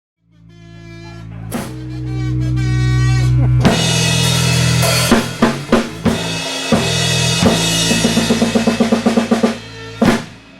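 Live rock band playing a song's intro: a held chord fades in and swells while the drum kit adds scattered hits, then a fast run of drum strokes builds to a sharp hit near the end.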